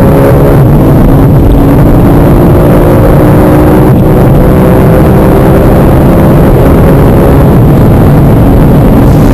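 Audi RS performance car accelerating hard at full throttle, its engine note climbing slowly in pitch. There is a brief break about half a second in and a short crack near four seconds, likely gear changes.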